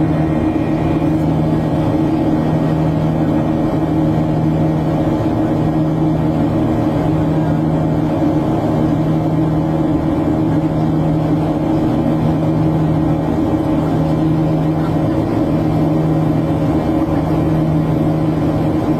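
Steady engine drone heard from inside a passenger cabin: a constant low hum with a few steady tones under an even rushing noise.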